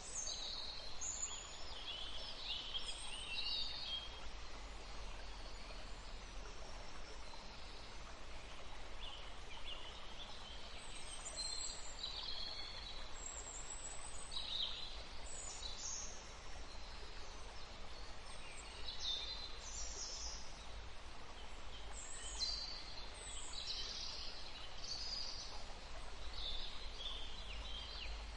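Several wild birds singing and calling in a forest chorus: short high chirps and brief song phrases from several birds at once, over a steady low rumble.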